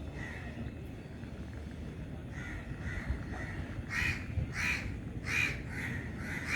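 Repeated short, harsh bird calls, caw-like, softer at first and then louder from about four seconds in, over a steady low background rumble.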